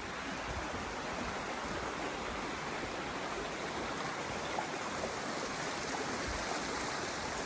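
Mountain creek water rushing steadily, an even, unbroken rush.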